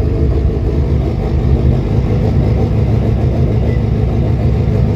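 The built 4B11 turbocharged four-cylinder engine of a 2008 Mitsubishi Lancer Evolution X rally car, idling steadily.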